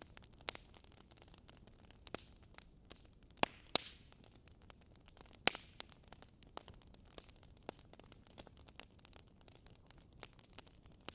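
Wood fire in a fireplace crackling: a steady run of small ticks and snaps over a soft hiss. Two louder pops come a little before four seconds in and another about five and a half seconds in.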